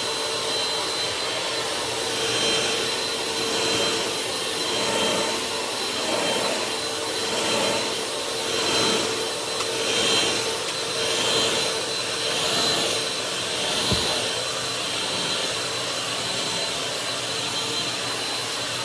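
Small Bissell Power Force vacuum cleaner running with a steady whine that swells and fades about every second and a quarter as it is pushed back and forth, with one sharp knock near the end. Its brush probably has no belt driving it.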